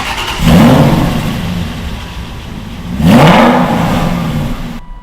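Aston Martin V8 Vantage's 4.7-litre V8, warm, with its exhaust flaps held open, revved twice: each blip rises in pitch and falls back to a steady idle, about half a second in and again about three seconds in.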